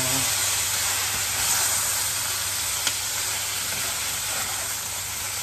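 Diced potatoes and red onion frying in margarine in a pot, sizzling steadily while a slotted spoon stirs them. A single light click about three seconds in.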